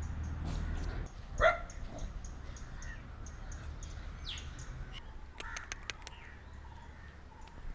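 A crow cawing a few times, short harsh calls spaced out, over a steady low rumble.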